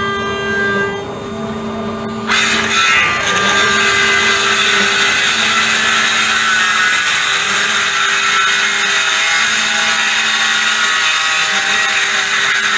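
A power tool cutting: a loud, steady hiss starts suddenly about two seconds in and runs on unbroken, over a steady machine hum.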